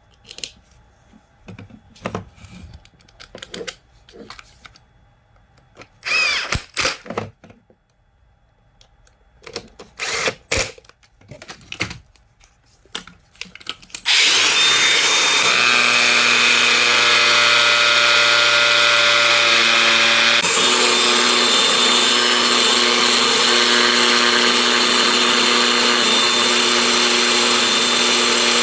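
Clicks and knocks as a Makita DGA404 18V brushless angle grinder is handled. About halfway through, its motor starts suddenly and runs steadily, now working again after its welded slide-switch contact was repaired and its rotor was realigned so it no longer rubs the stator.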